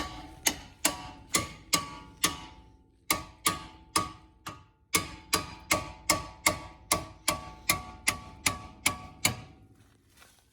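Steel hammer blows on the Prelude's front suspension, about two dozen sharp metallic strikes at roughly two to three a second, each ringing briefly, with two short pauses. The struck part bounces under the blows, probably because the other joint has been left loose.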